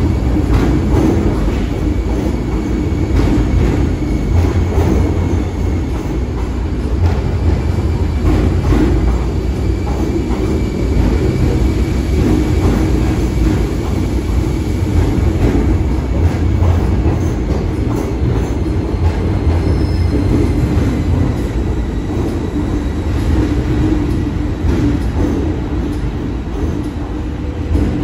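MTR M-Train electric multiple unit rolling slowly past the platform. A steady, loud low rumble of wheels on rail, with scattered clicks and a faint thin, high-pitched whine held at a steady pitch.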